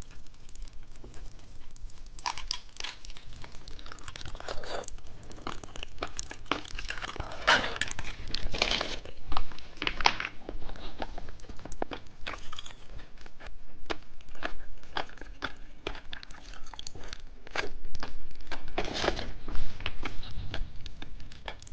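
Plastic candy packaging crinkling and tearing, with many small irregular clicks and crackles as candy pieces are handled.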